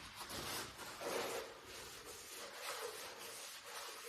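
Faint rubbing and scraping of hands and tools working over a bare engine block's cylinder bore, in a series of soft irregular strokes.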